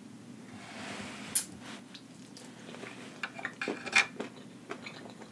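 Close-miked eating sounds of sauce-covered rotisserie chicken: wet chewing and mouth smacks. A soft hiss about half a second in, then sharp clicks, one a little after a second and a quick run of them in the second half.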